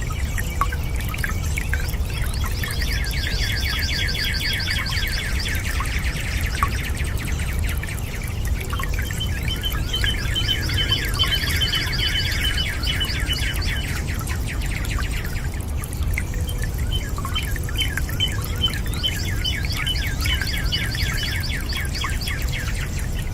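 Birds singing rapid trills in three long bursts of several seconds each, over a steady low rush of running water.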